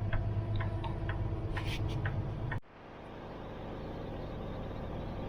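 Peterbilt 389 semi truck's diesel engine running, heard from inside the cab as a steady low hum with a few light clicks. About halfway through it cuts off abruptly to a quieter, even rumble of the cab at highway speed.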